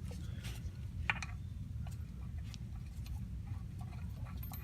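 Scattered light clicks and taps of hand tools on metal parts, irregularly spaced, over a steady low background hum.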